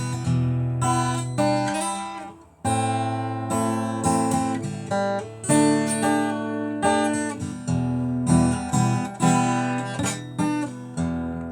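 Acoustic guitar playing chords in an instrumental break between sung lines, each chord ringing and fading. The playing stops briefly about two and a half seconds in.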